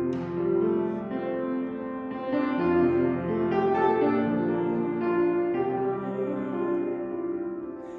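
Keyboard instrument playing slow, held chords that change about once a second, leading into a sung psalm or hymn.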